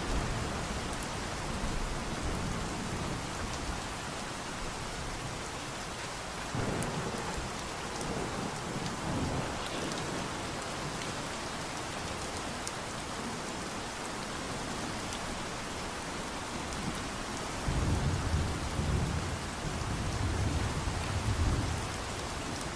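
Steady rain falling, with thunder rumbling low twice: once about a quarter of the way in and again, louder, near the end.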